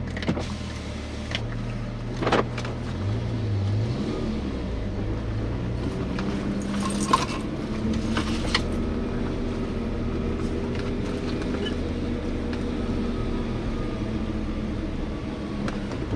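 BMW M5 E60's V10 engine running steadily at low revs, with a brief rise in pitch about three seconds in and a few sharp clicks.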